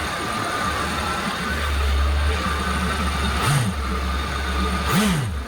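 Yamaha MR1 four-stroke jet-boat engine idling steadily out of the water, with a garden hose flushing water through it. Its pitch rises and falls briefly twice in the second half.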